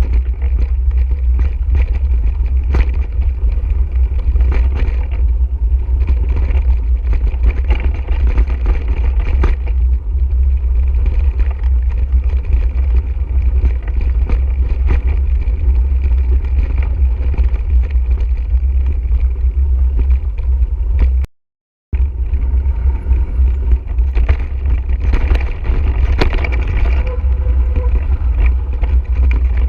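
Loud, steady wind rumble on the microphone of a mountain bike in motion, mixed with tyre noise on the dirt trail and many small rattling clicks from the bike. The sound cuts out completely for about half a second about two-thirds of the way through.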